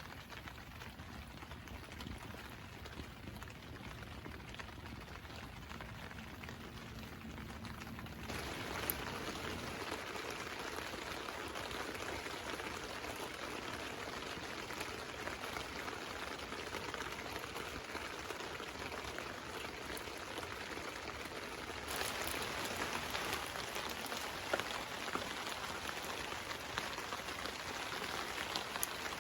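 Steady rain falling on a tarp, an even hiss of drops. It gets louder in two sudden steps, about a third of the way in and again near the end, and a few faint clicks sound through it.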